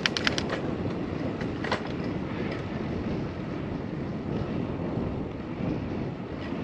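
Steady wind noise on a microphone during a bicycle ride, with a quick run of about five sharp clicks at the start and one more click shortly before two seconds in.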